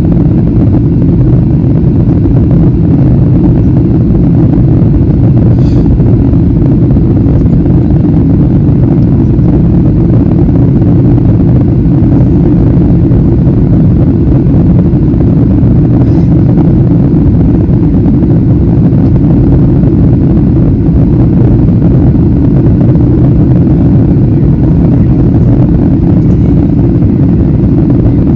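Airliner cabin noise at a window seat in flight: a steady, deep rush of engine and airflow noise that holds even throughout.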